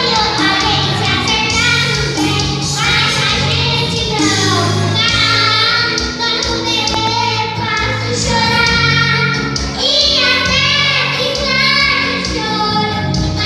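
A song: a high voice singing a melody over instrumental accompaniment.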